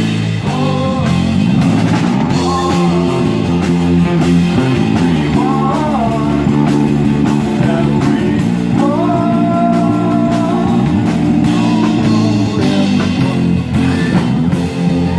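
Rock band playing a song with a singer: drums, electric guitar and bass, the vocal holding long notes. Near the end the drums drop out, leaving the guitars.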